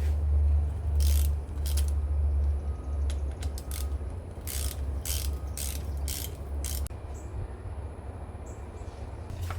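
Irregular ratcheting clicks over a steady low hum that drops away about seven seconds in.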